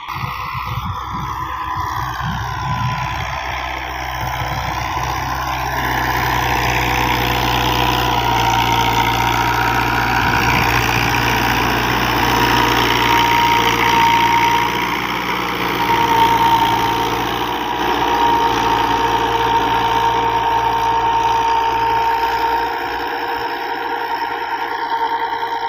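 New Holland 85 hp tractor's diesel engine running steadily, getting louder about five seconds in and then holding a constant note.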